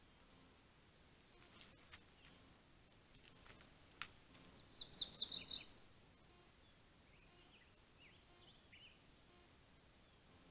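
Faint birdsong: a quick run of short, high chirps about halfway through, with softer chirps a few seconds later. A few faint clicks come before the chirps.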